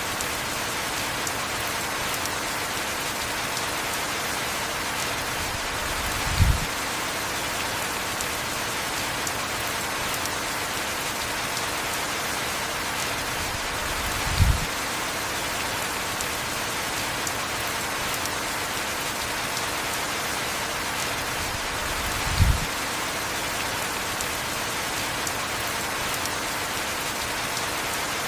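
Heavy rain falling steadily, a constant even hiss. Three times, about eight seconds apart, a short low thump stands out above it.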